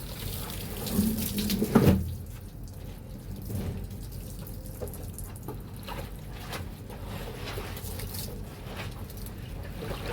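Water splashing and sloshing as laundry is washed by hand in a basin, with a louder splash just under two seconds in.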